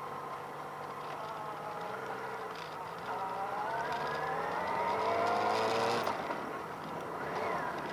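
Motorcycle engine running, then speeding up with a rising pitch for about three seconds before easing off sharply about six seconds in.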